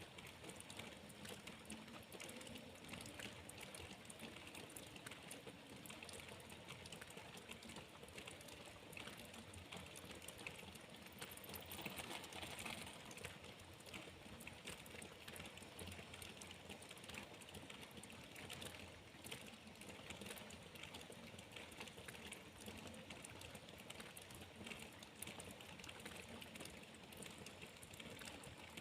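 Rain falling: a faint, steady patter of many small drops.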